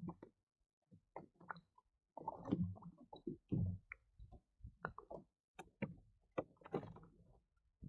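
An irregular run of knocks, clicks and dull bumps on a fishing kayak, with a few longer, heavier bumps among them.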